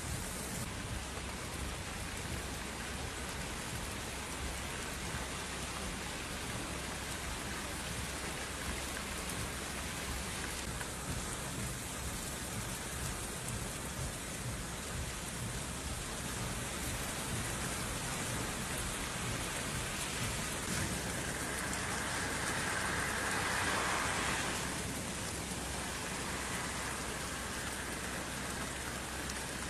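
Steady heavy rain, a continuous even hiss, swelling louder for a few seconds about three-quarters of the way in.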